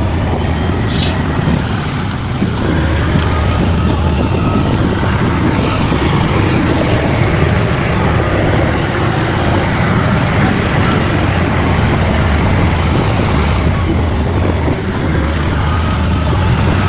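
Bulldozer's diesel engine running steadily with a low drone.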